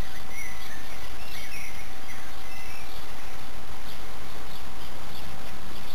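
Steady hiss of background noise with a constant faint hum, and small birds chirping several times over it, mostly in the first half, with short high ticks later on.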